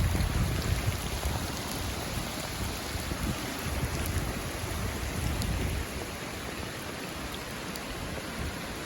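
Steady hiss of heavy rain, with low rumbling surges in the first few seconds.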